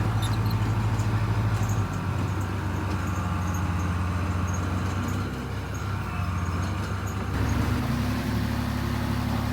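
Bulldozer's diesel engine running under load with a steady low hum. The engine note shifts about two seconds in, then rises and grows a little louder near the end.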